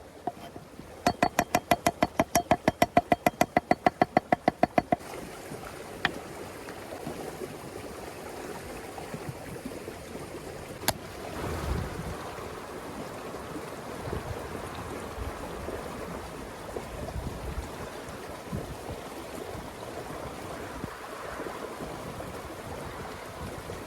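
A rapid, even tapping, about six taps a second, for the first five seconds, then steady wind-like outdoor noise with a few single knocks.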